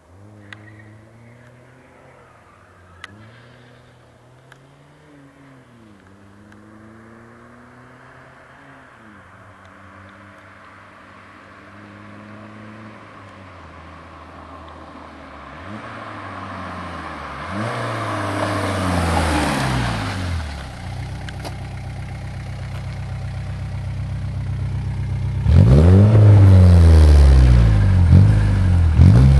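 Škoda Felicia 1.9 D four-cylinder diesel engine heard through its exhaust. It starts faint with short revs rising and falling, then accelerates and grows louder, and jumps suddenly much louder about 25 seconds in with more revving.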